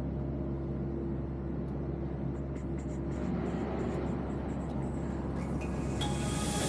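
An e-bike on the move: steady road and wind noise with a low hum, and a few light ticks around the middle.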